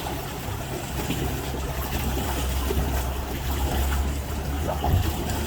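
Water trickling and splashing around a pedal boat as it is pedalled along, over a steady low rumble.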